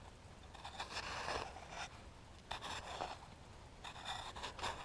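Snow being scraped and dug through in three short scratchy bursts while a buried chain necklace is worked loose.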